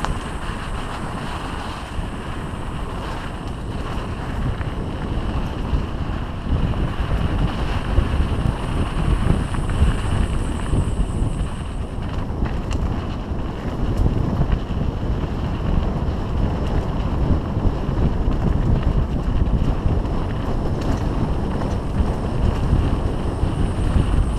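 Wind buffeting the microphone of a camera riding on a mountain bike descending at speed, mixed with rumble from the tyres and bike on the trail.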